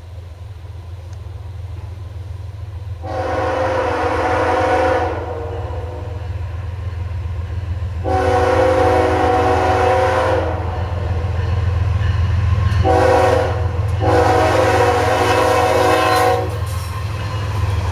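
Diesel freight locomotive's multi-tone air horn sounding the grade-crossing signal, long, long, short, long, over the steady low rumble of the locomotive, which grows louder as the train approaches.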